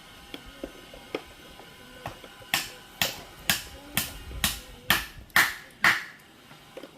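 A knife chopping raw chicken pieces on a cutting board: a few light taps, then about eight hard chops at roughly two a second.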